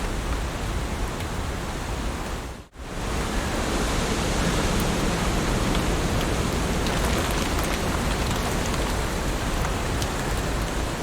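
Heavy rain falling steadily, an even hiss with faint scattered drop ticks. About three seconds in it cuts out for a split second, then comes straight back at the same level, like a join in a looped recording.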